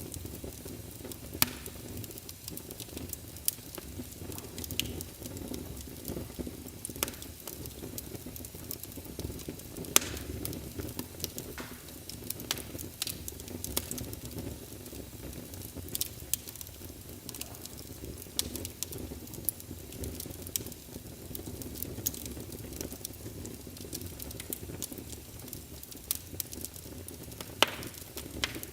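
Logs burning in a fireplace: a steady low rush of flame with frequent sharp crackles and pops, and a few louder snaps scattered through.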